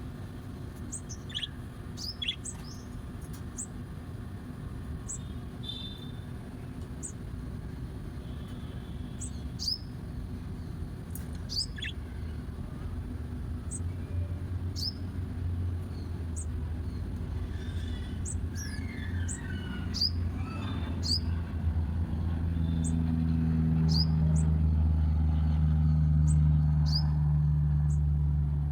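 Birds chirping: many short, high chirps, spaced irregularly. A low, steady engine-like hum builds up through the second half and becomes the loudest sound near the end.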